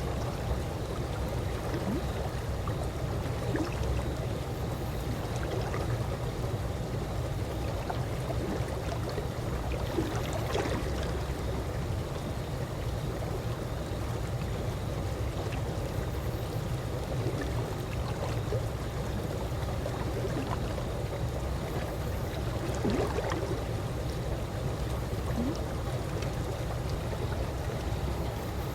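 Calm swimming-pool water moving and lapping steadily, with a couple of faint small splashes.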